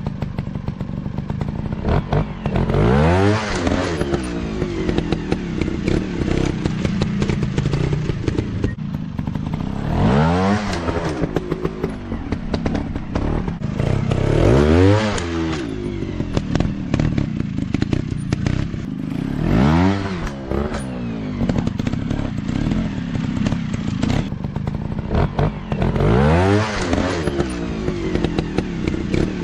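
Dirt-bike engines running, one revving up and dropping back about five times over the steady drone of other bikes, with some clattering.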